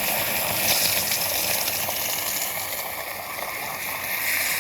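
Water gushing steadily as it is poured in to flood a container.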